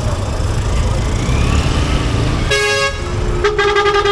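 Steady low rumble of a motorcycle riding in traffic, then vehicle horns honking: a short blast past halfway and a longer, held honk near the end.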